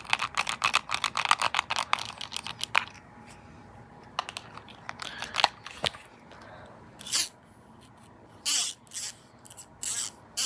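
Close-microphone ASMR trigger sounds: a fast run of tapping clicks, about ten a second, for the first three seconds. Then scattered single clicks and a few short scratchy swishes.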